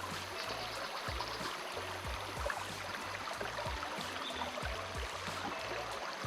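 Steady rush of flowing river water, with short low thumps on the microphone every half second or so.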